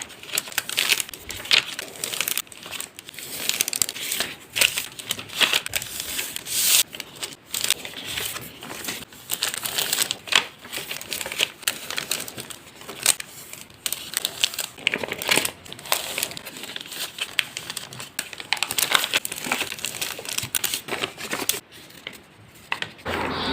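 A sheet of paper being handled, folded and creased into a paper airplane, with irregular crinkling and crackling all through.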